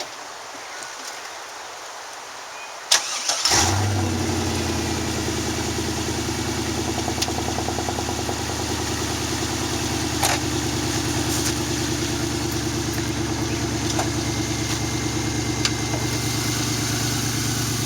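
A 1999 Camaro Z28's LS1 5.7-litre V8 starting about three seconds in, catching at once with a short flare, then settling to a steady idle. The exhaust is open at the back of the Y-pipe, so the engine sounds loud and unmuffled.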